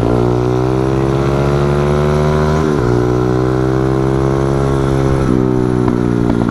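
Small pit-bike motorcycle engine pulling under way, its pitch climbing steadily, then dropping suddenly about three seconds in and again about five seconds in, as with upshifts.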